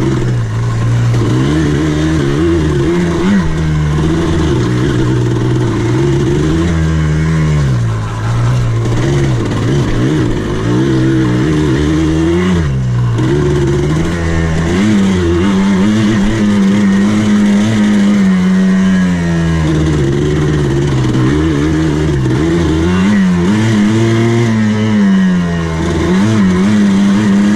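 Off-road buggy engine running and revving as it is driven around a dirt course, its pitch rising and falling again and again with the throttle, heard from the driver's seat.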